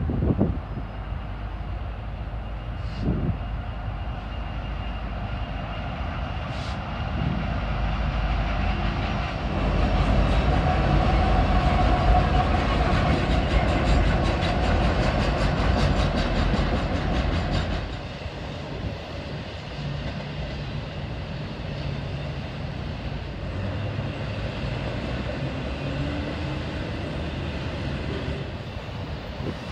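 Freight train with several diesel locomotives in the lead passing by, engine rumble loudest for several seconds as the locomotives go past. It then drops to the quieter, steady rumble and clatter of double-stack container cars rolling by.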